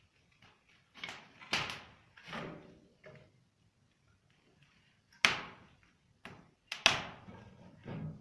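Softwood logs, spruce or pine, burning in a fireplace insert's firebox, crackling with irregular sharp pops. The two loudest pops come about five and seven seconds in.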